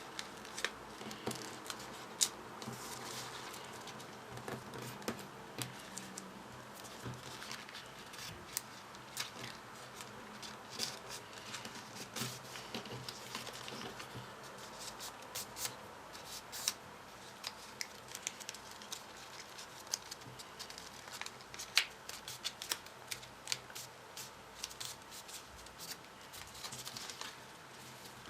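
Folded paper modules handled and pushed together: irregular crisp clicks and light rustles of paper, with a few louder snaps around the middle and about two thirds of the way in.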